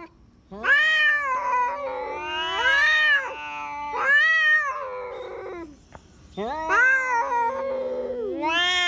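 Two tomcats yowling at each other in a fight standoff: long, wavering wails that rise and fall and overlap. The wails break off briefly about six seconds in, then start again.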